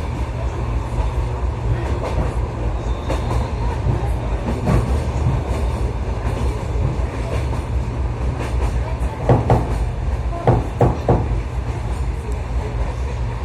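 Electric commuter train running, heard from inside the carriage: a steady low rumble of wheels and motors, with sharp clacks of the wheels over rail joints, a cluster of them about nine to eleven seconds in.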